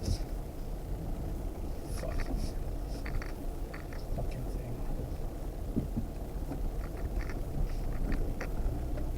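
Off-road vehicle crawling slowly over a rough trail: a steady low engine and tyre rumble, with scattered short clicks and creaks on top.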